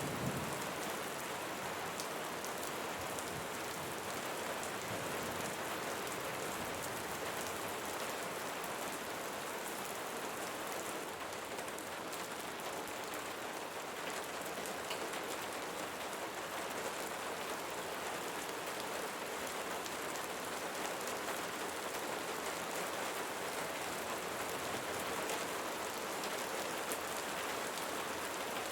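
Steady rainfall: a dense, even hiss of drops hitting a surface, with many small, sharp drop ticks.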